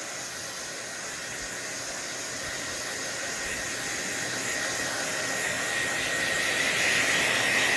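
Handheld hair dryer blowing steadily, drying a horse's coat. It grows gradually louder, and a high whine comes in near the end.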